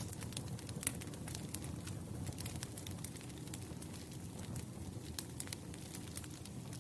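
Wood campfire burning, a steady low rumble of flames with frequent sharp, irregular crackles and pops from the burning logs.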